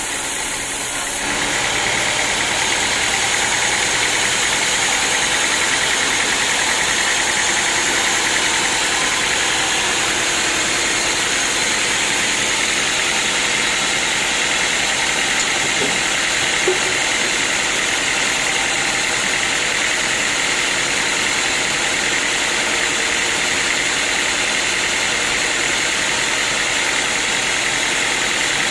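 Sawmill machinery running steadily, a loud even mechanical noise that steps up about a second in, as when the saw takes the cut into the wood.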